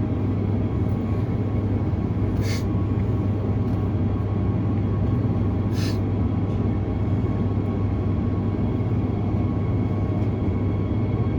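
Cabin of a Transperth B-series electric multiple unit crawling slowly through a tunnel: a steady low drone with a faint electric hum from the motors. Two brief high squeaks come about 2.5 and 6 seconds in.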